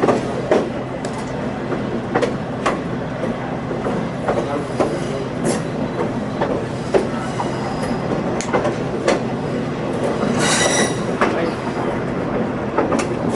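Passenger train rolling along, heard from aboard: a steady rumble of wheels on rail with irregular clicks and knocks from the track, and a brief high-pitched wheel squeal about ten seconds in.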